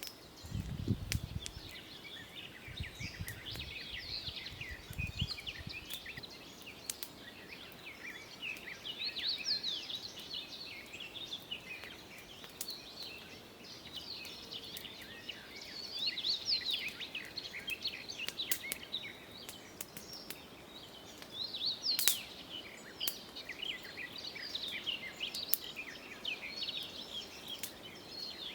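Birds singing in the forest, a dense run of short, high chirps and trills overlapping throughout. A few low rumbles come in the first few seconds, and there is a sharp click about two-thirds of the way through.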